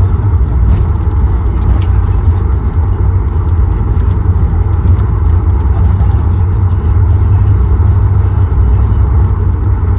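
Steady, loud low rumble inside the cabin of a Boeing 737 MAX 8 jet airliner, from its CFM LEAP-1B engines running.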